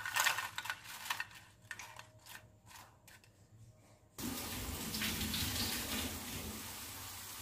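Light crisp taps and clicks, fading over the first three seconds, as fried potato twists tip from a wire strainer onto a plate. After a short pause, about four seconds in, potato sticks start sizzling steadily in hot oil.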